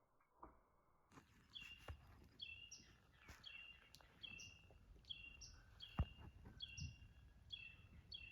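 Wood ducks calling: a run of about a dozen short, thin, high squealing calls, each ending in a quick upward hook, roughly one every two-thirds of a second. A single sharp click about six seconds in.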